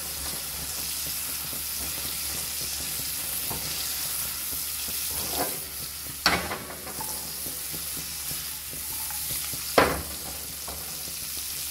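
Pumpkin strips and scotch bonnet pepper sizzling steadily in melted butter in a frying pan while being stirred with a silicone spatula. The spatula knocks sharply against the pan twice, about six and ten seconds in.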